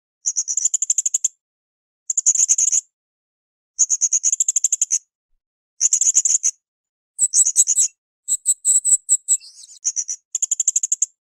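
Srindit (hanging parrot) calling: about a second of rapid, high-pitched ticking notes at a time, repeated every second or two, with a longer, more varied chattering phrase around the middle.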